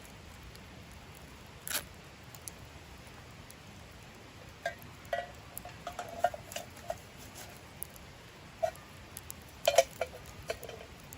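Scattered light knocks and clicks, some with a brief ring, over a steady low hiss. The loudest come about two seconds in and again near ten seconds.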